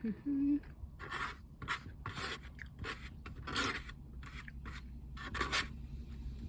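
Rustling and scraping from handling takeout food and its packaging, in a run of short bursts, over a low steady hum.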